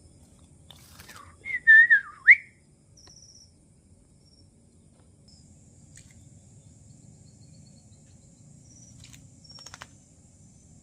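A short, loud whistle with a wavering pitch a couple of seconds in, ending in a quick upward glide, followed by a few faint high chirps and clicks.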